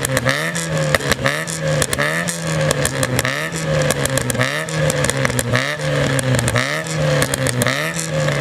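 Yugo 55's small four-cylinder engine revved again and again, about once a second, with sharp pops and crackles from the exhaust as the revs fall.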